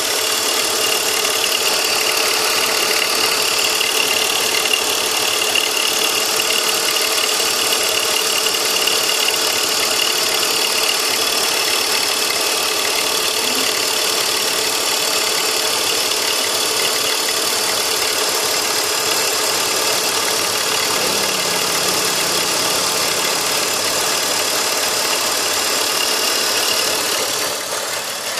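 BMW M54B25 2.5-litre straight-six engine idling steadily during warm-up after a cold start. It gets slightly quieter near the end.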